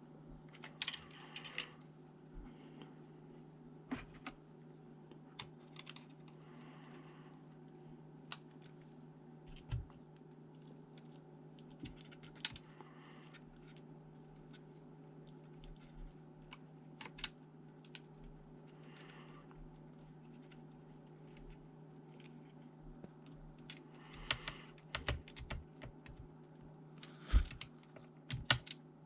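Irregular light clicks and taps from hands working on a ThinkPad T400 laptop's plastic and metal parts, with a few short soft scrapes and a small cluster of sharper clicks near the end, over a steady low hum.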